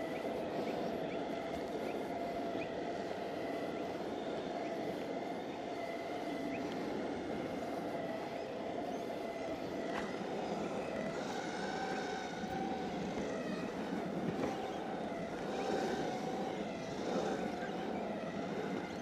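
Exway Flex Pro V3 electric skateboard riding on asphalt: a steady rumble of wheels on the pavement with the motors' whine on top, its pitch wavering and shifting as the speed changes.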